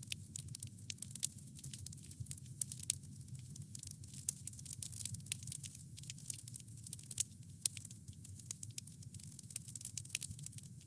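Wood fire crackling: a dense, irregular stream of sharp pops and snaps over a steady low rumble of the burning fire.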